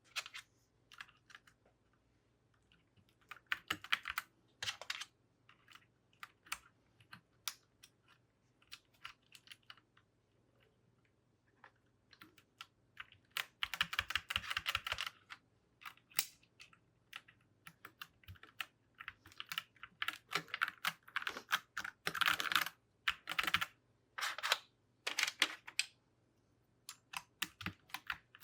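Keys of a mechanical keyboard clicking under a hand, in irregular bursts: a few scattered presses, then quick runs of clicks.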